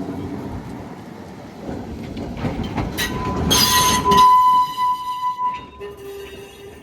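Heritage tram running on its rails: a low rumble, then a loud bright burst of noise about three and a half seconds in, followed by a steady high-pitched whine.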